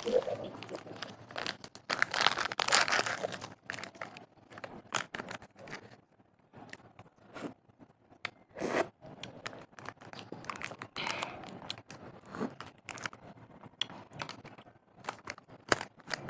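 Close-up snack packaging crinkling and tearing open, with crunchy bites and chewing in scattered sharp crackles.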